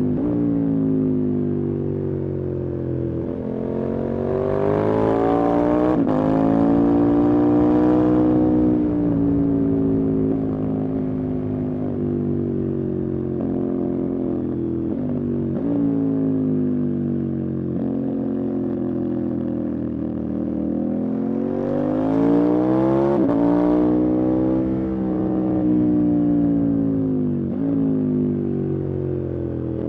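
Motorcycle engine running under way, its pitch rising twice as it accelerates and falling back as it eases off, with a few brief breaks in the tone.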